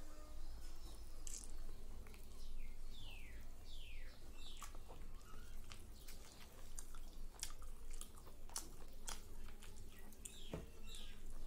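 Close-miked eating sounds: wet chewing and mouth smacks while eating chicken curry and rice by hand, with many short sharp clicks.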